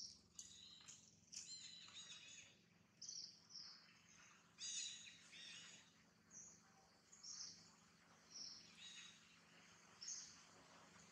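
Faint bird calls: short, high chirps and trills repeating about once a second over a quiet outdoor background.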